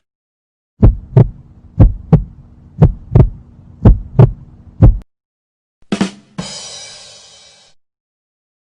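Heartbeat sound effect: paired low lub-dub thumps about once a second over a faint steady hum, four and a half beats in all. About six seconds in, a short hit and a ringing tone that fades out.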